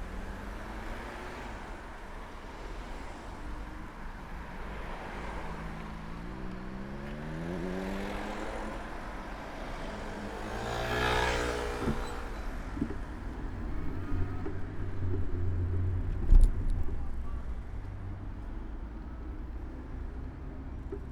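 City street traffic heard from a moving bicycle: a steady low rumble, with an engine note rising as a vehicle accelerates. About halfway through a motor vehicle passes close, swelling and fading. A single sharp knock about three-quarters of the way through is the loudest sound.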